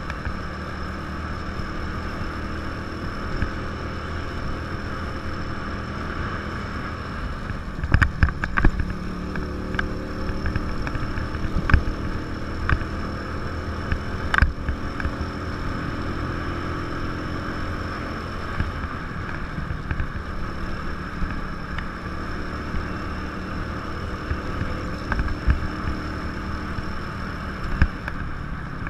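A 150 cc motorcycle engine running steadily under way, with wind and road noise. A few sharp knocks come through, about eight and fourteen seconds in.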